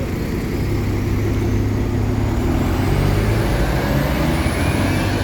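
A large diesel bus engine running close by, building up to its loudest about three seconds in and easing off near the end, with a faint high whine that rises steadily in pitch.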